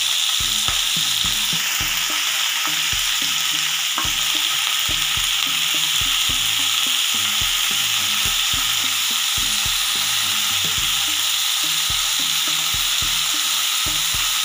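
Chopped fenugreek leaves sizzling in hot ghee in a non-stick kadai, with a steady hiss. A wooden spatula stirs them, knocking and scraping against the pan about once or twice a second.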